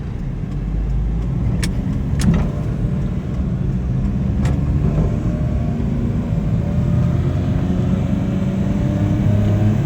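Suzuki Carry DB52T mini truck's 660cc three-cylinder engine and road noise heard from inside the cab while driving, the engine note rising gently as it picks up speed in the second half. A few sharp clicks from the cab about one and a half, two and four and a half seconds in.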